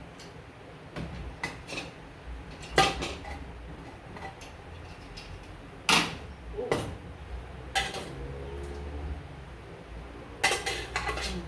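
Kitchen pots, lids and utensils clinking and knocking now and then during cooking, with two louder clanks about three and six seconds in and a quick run of clatter near the end.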